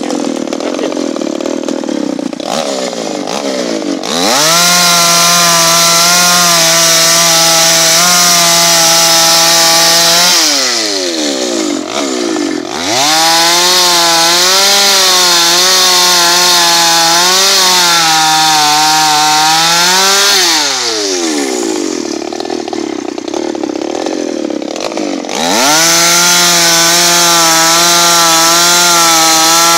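Chainsaw engine revved to high speed three times, dropping back to idle between runs. During the middle run the pitch dips and wavers as the chain works through wood.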